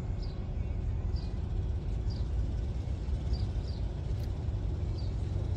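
Steady low rumble, with a bird giving short high falling chirps about once a second.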